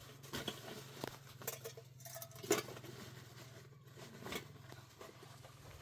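Faint, scattered light taps and clicks at irregular intervals over a low, steady hum.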